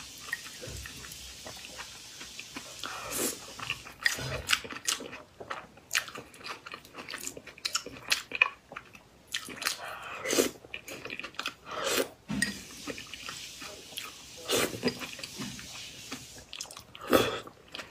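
Close-miked chewing and mouth sounds of a person eating, with irregular wet smacks and sharp clicks.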